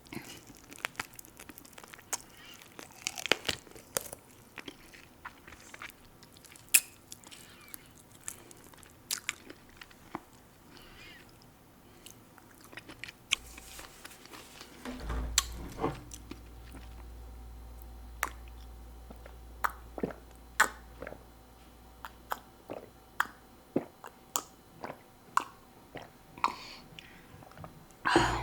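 Close-up chewing and biting of food, with many irregular sharp crunches and mouth clicks. A low rumble runs underneath for several seconds midway.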